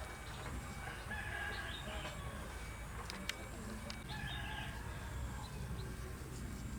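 Rooster crowing twice, about a second in and again about four seconds in, over a steady low rumble. There is a single sharp click midway.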